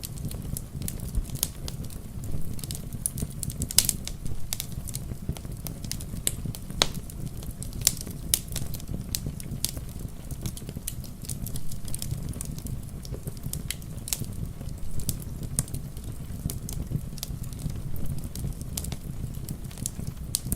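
Wood fire crackling, with frequent irregular sharp pops and snaps over a steady low rumble, and rain pattering steadily.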